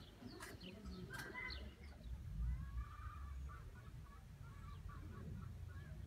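Birds calling, a few high chirps and then a run of short, repeated calls, over a low rumble that swells about two and a half seconds in.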